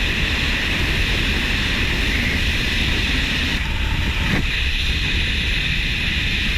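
Steady wind buffeting the microphone: a heavy low rumble under a constant rushing hiss.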